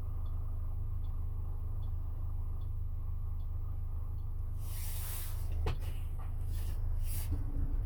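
Camping-car driving, heard from inside the cabin: a steady low engine and road rumble. Faint regular ticks, about one every three-quarters of a second, run through the first half, then from about halfway there are several short hisses and a sharp click.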